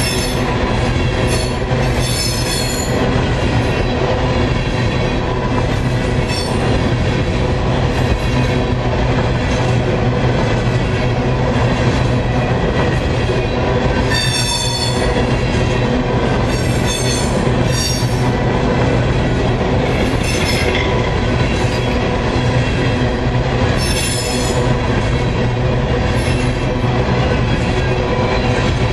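Empty coal hopper cars of a freight train rolling past at close range, a steady loud rumble of wheels on rail. High-pitched wheel squeal comes and goes several times, around 2 s, 14 s, 17 s and 24 s in.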